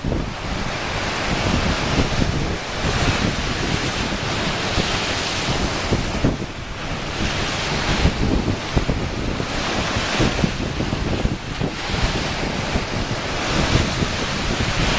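Ocean waves washing against shoreline rocks, surging and easing every second or two, with wind buffeting the microphone.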